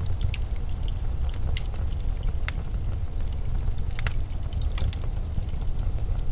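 Steady low rumble of winter storm wind, with scattered sharp crackles and ticks over it.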